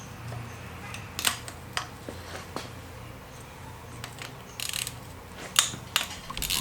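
Scattered metallic clicks and clinks of hand tools and engine parts being handled during an engine teardown, over a steady low hum.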